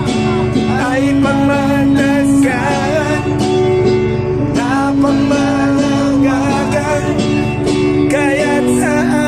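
Live singing of a slow ballad over instrumental accompaniment, with long held notes sung with vibrato over sustained chords.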